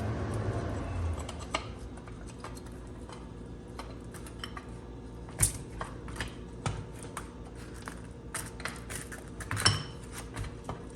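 Irregular metallic clinks and knocks of tools and steel parts as a rusty brake caliper is handled and worked apart, with the two sharpest knocks about five and a half and nine and a half seconds in. A faint steady hum runs underneath.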